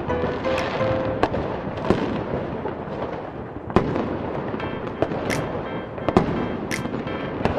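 Fireworks going off: a string of sharp bangs, about one a second, over a continuous crackle and rumble of bursting shells.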